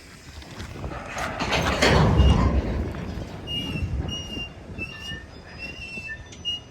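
Trona Railway freight train rolling past, its noise swelling to a peak about two seconds in and then easing off. In the second half, short high-pitched wheel squeals repeat about every half second.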